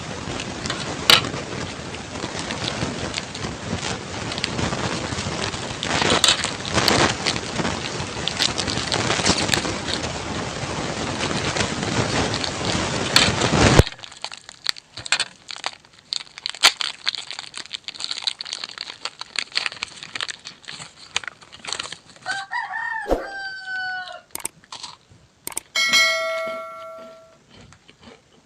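A steady hiss for about the first half, which cuts off suddenly. Then small clicks and a rooster crowing twice near the end, one bending call and one held call.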